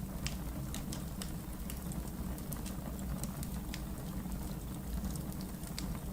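Fire burning in a fireplace and crackling: irregular sharp pops over a steady low rumble.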